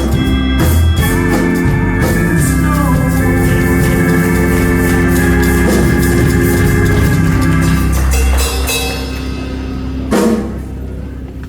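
Organ, Hammond-style, playing held chords with drums; the chord is let go about eight seconds in and the sound dies away, with a single loud hit about ten seconds in.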